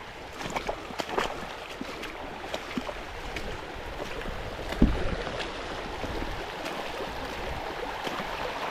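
River water moving and splashing, with many small clicks and light splashes and one heavy thump about five seconds in.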